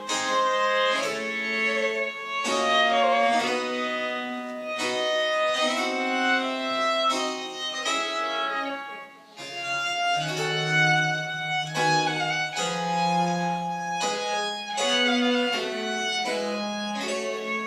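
French Baroque chamber music played live: a bowed string melody over a low bass line, with a brief break between phrases about nine seconds in.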